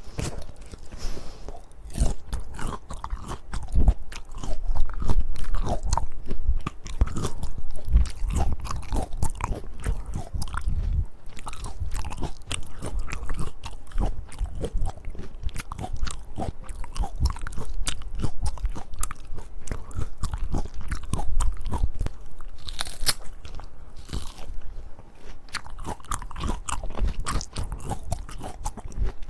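A person biting into and chewing peaches close to the microphone: a dense, irregular run of crunches and small clicks.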